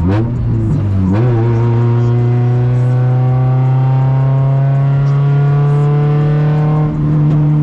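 Car engine pulling hard under full acceleration after a downshift. There is a quick dip and rise in pitch in the first second, then the engine note climbs steadily until a short break near the end as the driver lifts for the next shift.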